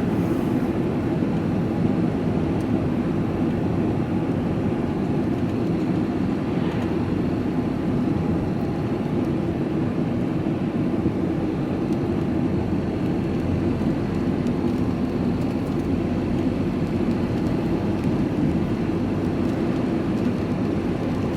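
Steady engine and road noise heard from inside a moving vehicle's cab.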